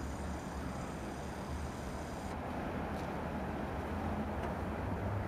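Approaching train locomotive, a low steady rumble with a faint high whine that cuts off about two seconds in.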